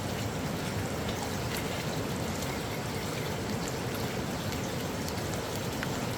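Steady running water with a few small drips and splashes, cut off abruptly at the end.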